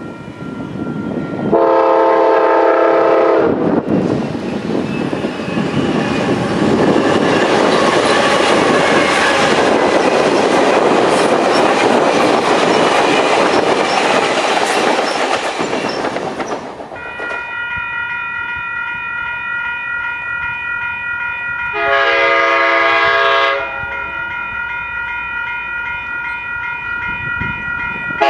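A diesel passenger locomotive's multi-chime air horn (a K5LA) sounds a chord, then the passenger train rushes past on the rails for about a dozen seconds. After a cut, a grade-crossing bell rings steadily, with another horn chord about 22 seconds in and again at the very end.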